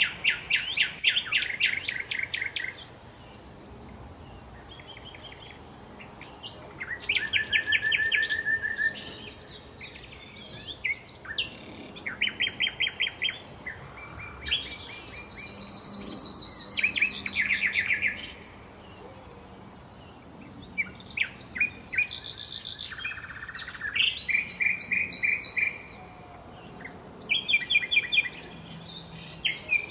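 Songbirds singing: a run of short, rapid trills of repeated notes, one phrase after another every few seconds, some high and some lower, from more than one bird.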